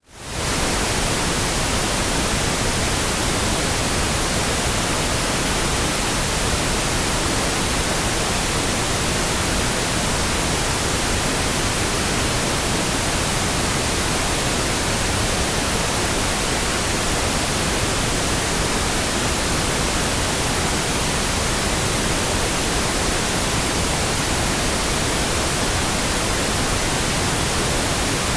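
Steady pink noise, an even hiss with no tones or rhythm in it, fading in quickly from silence at the very start and then holding constant.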